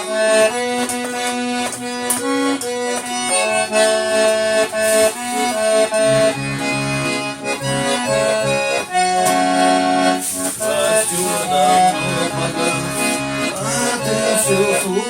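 Accordion playing the instrumental introduction to a song, with held chords under a melody that moves in steps.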